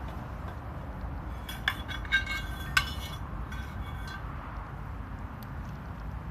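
Light metal-on-metal clinks from camp cookware or stove parts, a quick cluster of about four strikes with a brief ringing, then a couple of fainter taps, over a steady low background rumble.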